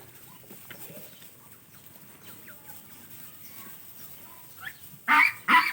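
Domestic ducks quacking: two loud, short, raspy quacks close together near the end, with faint scuffling and soft calls before them.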